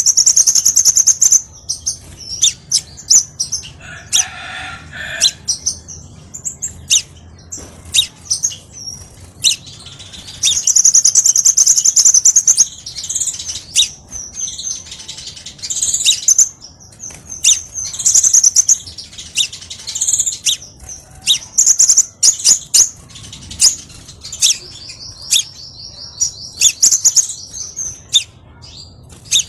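Crimson sunbird (kolibri sepah raja) singing: fast, high-pitched trills and sharp chip notes repeated one after another, with a lower wavering trill near the end. A brief lower call comes about four seconds in.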